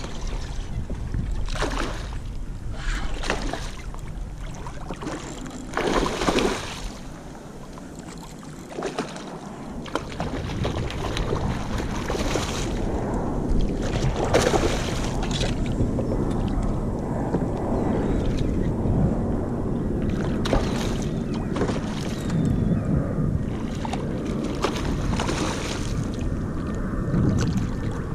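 Water splashing around a kayak: irregular sudden splashes over a steady wash of water noise.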